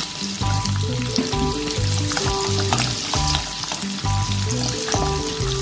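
Sliced onions and garlic sizzling in hot oil in a nonstick pan while a slotted spatula stirs them, over background music with a steady beat.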